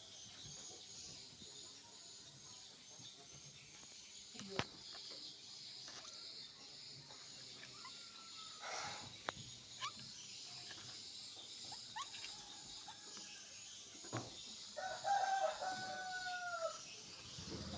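Steady high chirring of insects, with a few sharp clicks and a short rising bird call. Near the end comes one long bird call, held about a second and a half and falling in pitch at its end.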